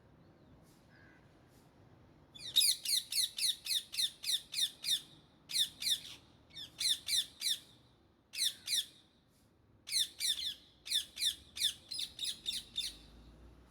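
Indian ringneck parakeet calling in quick runs of repeated shrill squawks, about four to five a second, in five bursts separated by short pauses.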